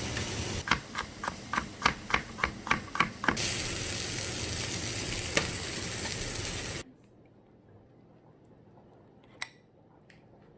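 Food sizzling in a frying pan while a utensil scrapes and taps against the pan about four times a second, then steady sizzling that cuts off abruptly about two-thirds of the way through. After that only faint room tone with a single click.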